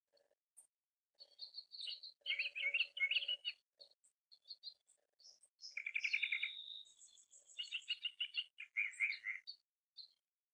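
Several songbirds singing: rapid trilling phrases about two seconds in and again from about six seconds in, with a high thin whistled note around seven seconds and short chirps scattered between.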